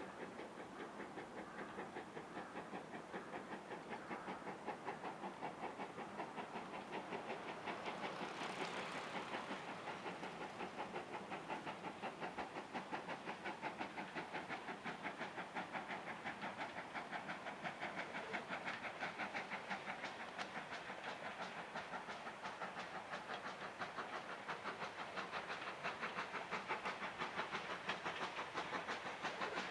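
Steam locomotive working, its exhaust beats coming in a steady rapid rhythm and growing gradually louder as it approaches, with a brief hiss of steam about a third of the way in.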